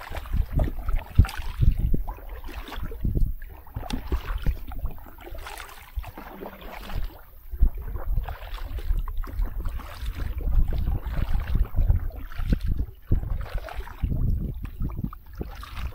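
Paddling a boat on a river: irregular splashes and water sloshing, with uneven low buffeting, as from wind or handling on the microphone.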